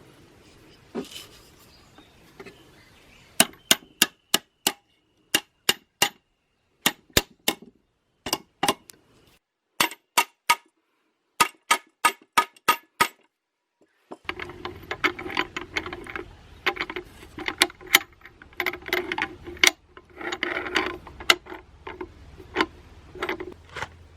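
Metal parts knocking together in a series of sharp, ringing clinks, then a steady hum with dense clattering over it for the last ten seconds or so.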